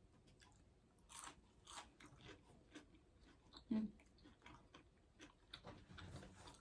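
Faint crunchy chewing and biting of breaded meatless nuggets close to the microphone: scattered short crunches and mouth clicks, the loudest a little before the four-second mark.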